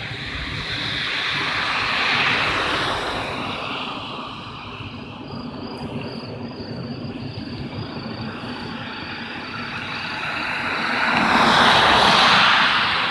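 Airplane flying overhead, a broad engine rush that swells, eases, and swells louder again near the end.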